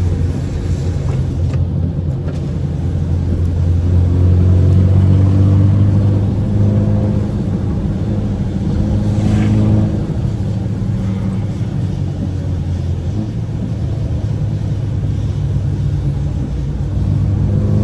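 2015 BMW 328i's four-cylinder engine and exhaust running while driving, a steady drone whose pitch holds for stretches and shifts a few times, getting a little louder about a third of the way in.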